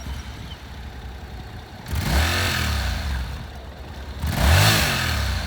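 Honda NC700X's 670 cc parallel-twin engine idling, with the throttle blipped twice, about two seconds in and again near the end, each rev rising and falling back to idle.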